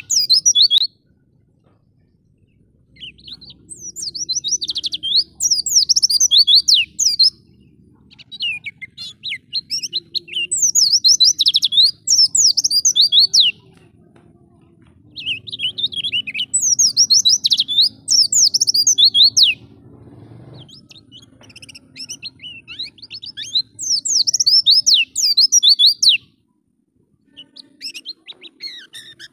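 White-eye (pleci) singing: long, fast, high-pitched twittering phrases made of rapid sweeping notes, in about five bursts separated by short pauses.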